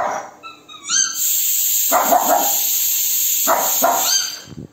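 Shih tzu barking several times in short bursts, over a steady high-pitched hiss.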